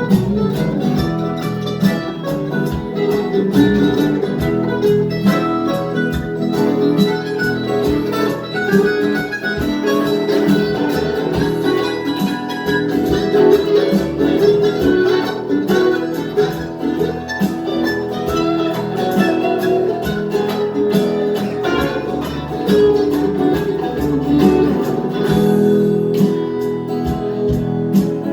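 Acoustic guitars playing an instrumental passage of a folk-rock song, with quick picked notes over steady strumming.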